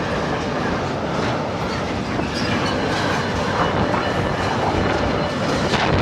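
Freight train's goods wagons rolling past close by, wheels clattering rhythmically over the rail joints, with one louder clack near the end. A faint thin high squeal from the wheels runs under it from about halfway through.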